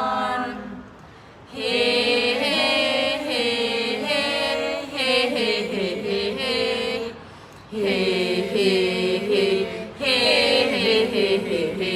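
Voices chanting Thai royal barge poetry (kap he ruea) in the traditional melodic style, in long held, wavering phrases separated by brief pauses for breath.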